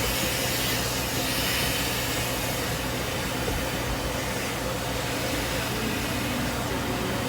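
Steady road and wind noise inside a moving car with a window down, with a low engine and tyre hum.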